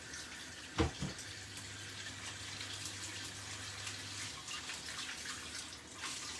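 Kitchen tap running as a knife and chopping boards are rinsed, with a sharp knock about a second in. A low hum runs underneath for a few seconds.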